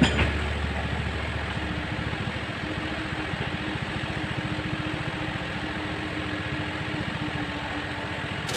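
Old Kobelco mini excavator's diesel engine running steadily.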